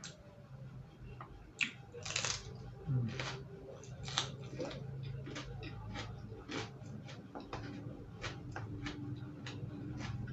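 Close-up chewing of crunchy raw vegetables: irregular crisp crunches and mouth clicks, several a second, loudest in the first half, over a low steady hum.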